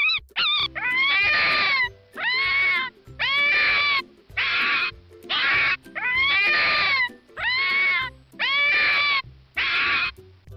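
A fox calling over and over: about nine drawn-out, wavering yelps of roughly a second each with short gaps between them, over faint background music.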